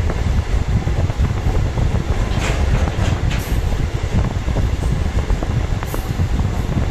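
Diesel multiple unit passenger train running along the track: a steady low rumble with a few faint clicks.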